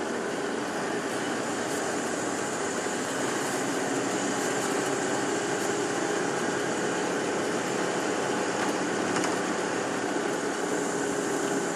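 Steady running noise of a tour bus heard from inside the cabin: engine and cabin noise holding even, with no changes.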